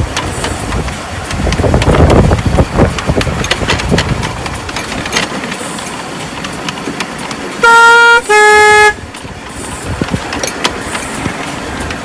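Locomotive horn sounding two short notes about eight seconds in, the first a little higher than the second. Under it an engine runs steadily, with scattered knocks.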